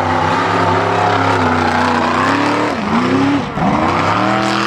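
Mega mud truck's engine running hard at high revs, held steady, then dropping sharply about three seconds in and revving back up.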